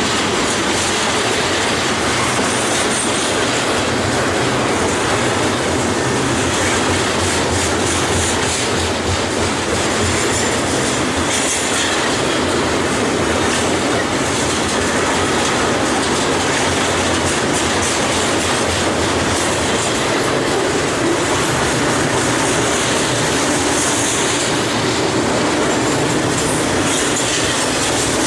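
Double-stack container freight train rolling steadily past, with the rumble and clatter of its wheels on the rails and a high wheel squeal coming and going.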